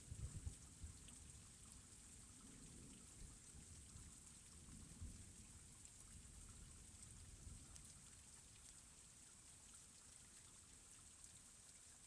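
Faint steady rain falling, with a few low thumps right at the start and a low rumble that dies away over the first half.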